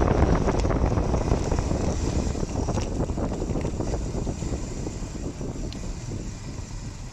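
Wind rushing over the microphone and tyre noise from a bicycle riding downhill on a wet road, with small rattles and clicks. The noise dies down steadily as the bike slows.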